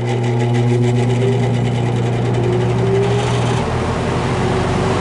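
Vintage GE W12 box fan's motor spinning up after being switched on, a hum under a slowly rising tone as the large blades come up to speed, with a growing rush of air; the low hum drops away about three and a half seconds in. A little bit of a noisy startup.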